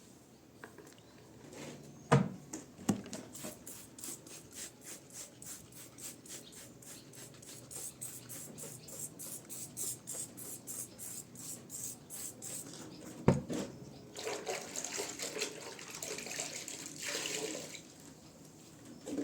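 Water and wet scrubbing: a couple of knocks, then quick regular rubbing strokes at about four a second for several seconds. Another knock follows, then a few seconds of splashing water.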